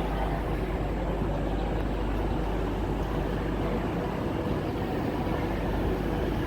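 Steady rumble of a train at a railway station, with a faint steady hum.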